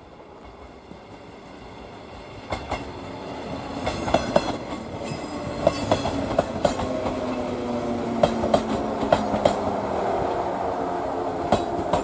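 A 115-series electric train approaches and runs past close by, growing louder over the first few seconds. Its wheels clack over rail joints, with a whine that slowly falls in pitch as it goes by.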